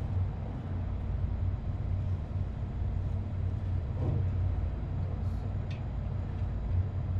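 Steady low hum and rumble of running machinery, with a few faint clicks.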